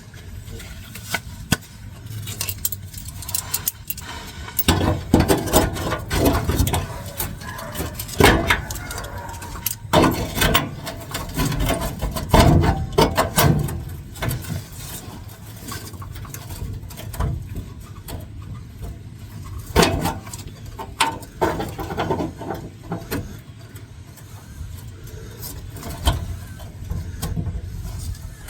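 Hand tools working the rusted bolts and spinning nuts of a truck's transmission tunnel cover: irregular metallic knocks, clicks and scraping.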